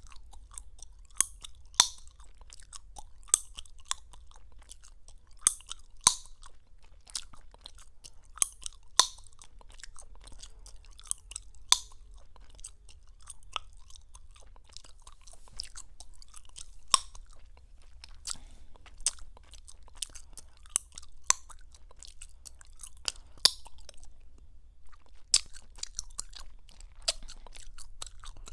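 Close-miked gum chewing: wet smacking with sharp gum pops and clicks at an irregular pace, one to three a second, pausing briefly near the end.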